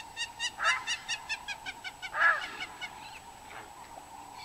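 Birds calling: a rapid run of repeated clipped calls, about five a second, lasting about three seconds, with two louder harsh honking calls about a second and two seconds in.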